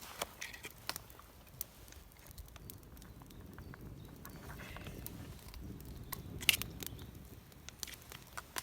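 Dry wood and kindling crackling and snapping in irregular sharp clicks, the loudest about two-thirds of the way through, over a low rumble.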